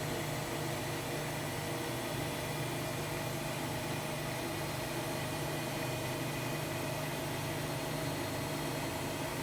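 Hotpoint-Ariston Aqualtis AQD972F washer-dryer running, a steady low machine hum that does not change.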